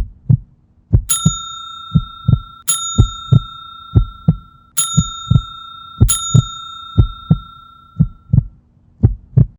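Heartbeat-like double thumps, about one pair a second, with a bell-like chime struck four times over them, each strike ringing on until the next; an edited intro sound effect rather than a live recording.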